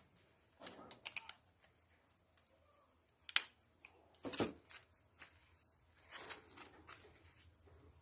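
Light clicks and knocks of piston rings and a ring compressor being handled, with two sharper clicks in the middle.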